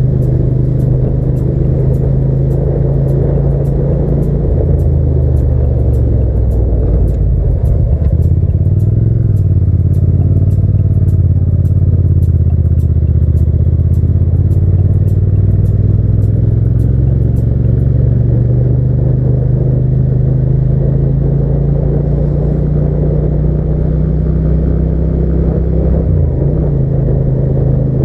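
Hyosung GT650's V-twin engine running steadily while riding, its pitch dipping and rising a few times as engine speed changes.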